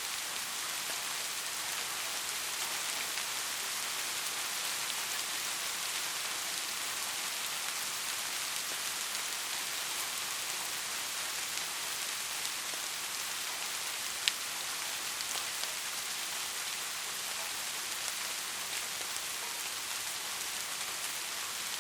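Soft rain falling in a steady, even hiss, with one sharp tick about two-thirds of the way through.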